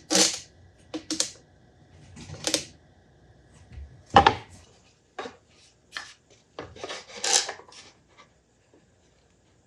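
Pieces of scrap wood being handled and sorted: a string of irregular knocks, clacks and scrapes, the sharpest about four seconds in, dying away near the end.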